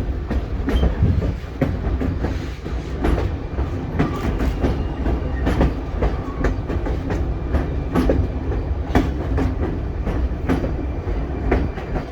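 Narrow-gauge railway passenger car running along the track: a steady low rumble with irregular clicks and knocks of the wheels over the rails.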